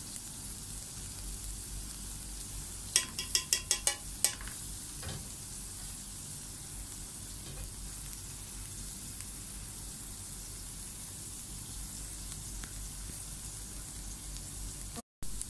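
Fried rice sizzling in a metal pan, a steady hiss. A quick run of about six sharp clicks comes about three seconds in.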